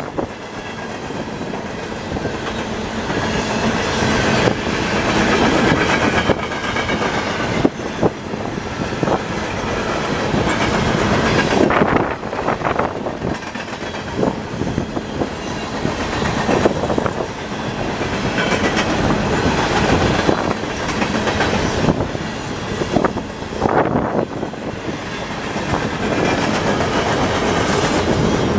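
CSX freight train rolling past, its wheels clacking over the rail joints in a steady stream of knocks, with a faint high wheel squeal through the first half.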